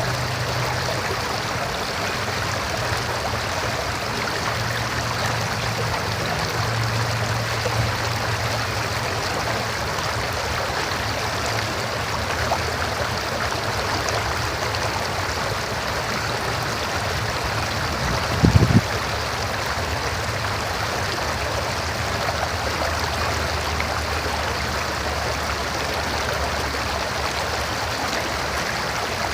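River water flowing steadily in a continuous rushing, with a faint low hum underneath. A brief low thump comes about two-thirds of the way through.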